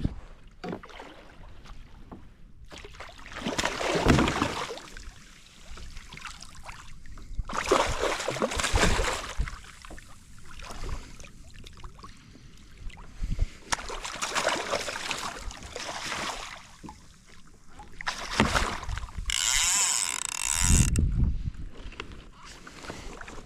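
Water washing against a fishing kayak's hull in surges every few seconds, with a brief higher-pitched hiss about twenty seconds in.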